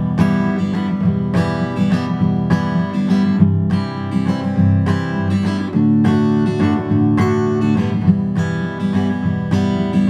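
Acoustic guitar strumming chords in a steady rhythm, playing the song's intro chord progression, with a chord change about six seconds in.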